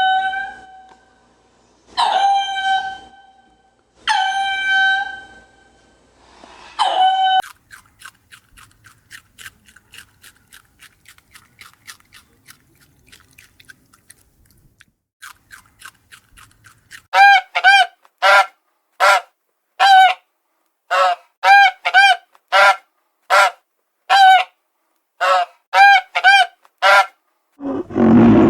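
Goose honking: four drawn-out honks, then a quiet stretch of rapid faint ticking, then a run of short honks about one every three-quarters of a second. Near the end a deep, loud call starts.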